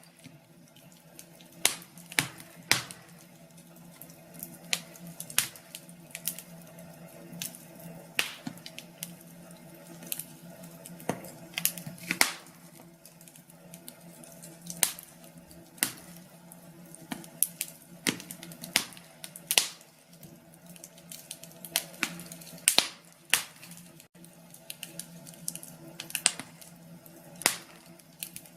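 Wood fire crackling in a fireplace: irregular sharp pops and snaps, some close together and some a second or more apart, over a steady low background.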